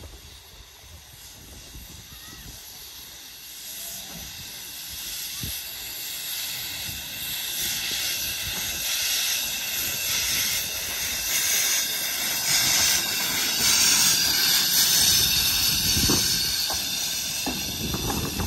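Narrow gauge steam locomotive letting off steam as it comes past. The hiss builds steadily to a peak about two-thirds of the way through, then eases, with a few knocks near the end.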